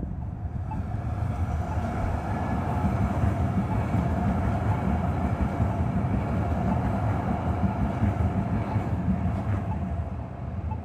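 A large vehicle passing close by: a steady rumble with a faint whine over it, building about a second in and easing off near the end.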